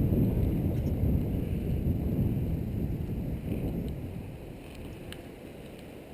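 Wind buffeting the microphone during a mountain bike ride, a low uneven rumble that eases off after about four seconds, with a few faint ticks near the end.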